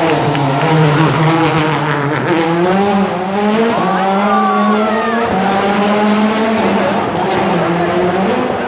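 Rally car engine running loudly with a steady note that steps up in pitch about two seconds in and settles back down near the end.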